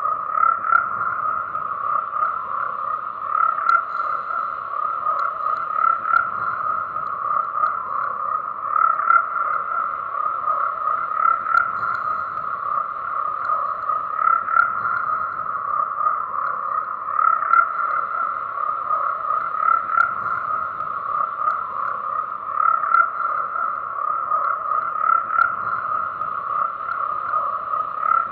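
A continuous chorus of many frogs calling, their overlapping croaks forming a steady pulsing drone with louder swells every couple of seconds.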